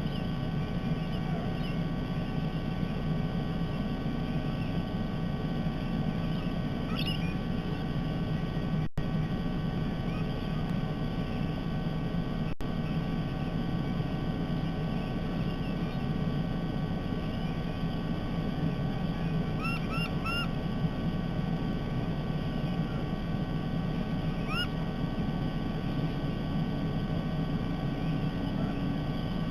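Steady low hum of background noise, with a few short rising bird chirps: one about a quarter of the way in, a quick run of three past the middle, and one more soon after.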